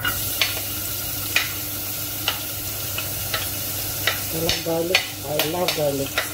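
Garlic hitting hot oil in a cooking pot starts sizzling suddenly, with clicks of stirring against the pot about once a second. This is the start of sautéing (gisa) garlic in a small amount of oil.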